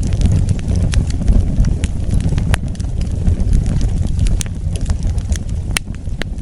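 Wood fire burning: a steady low rumble of flames with frequent sharp crackles and pops, a few of them louder.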